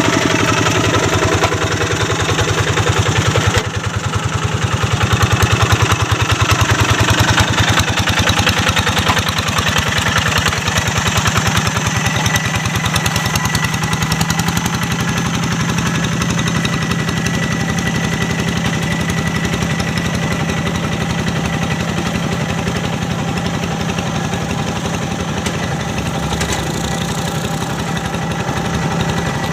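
Quick G1000 Boxer two-wheel hand tractor's single-cylinder diesel engine running steadily while ploughing a paddy field. Its note shifts about four seconds in, then holds steady.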